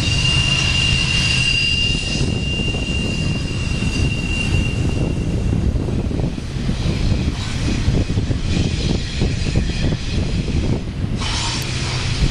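BNSF freight trains rolling past with a steady low rumble of wheels and cars. A high steady squeal fades out about halfway through, and a rapid clatter of wheel clicks and knocks fills the second half.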